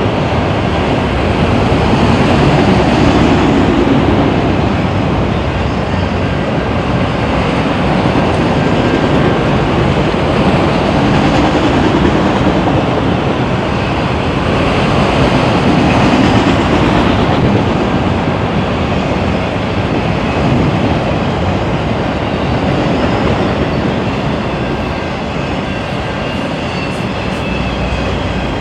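Long freight train rolling past, a steady loud rumble of railcars with wheels clattering over the rails.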